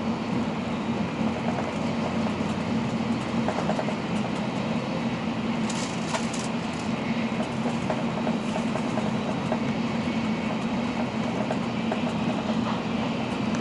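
Steady running noise of an N700-series Shinkansen heard from inside the passenger cabin at speed: an even rumble of wheels on rail with faint rhythmic clicks, and a brief hiss about six seconds in.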